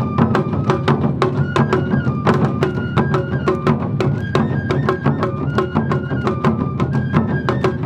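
Awa Odori festival band (narimono) playing: a bamboo-flute melody of held notes stepping up and down over a fast, steady beat of taiko drums and sharp metallic kane bell strikes.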